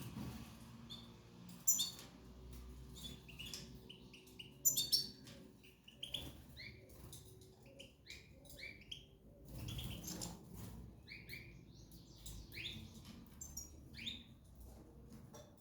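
Cage birds chirping, many short high calls and slurred notes scattered throughout, with a few sharp clicks.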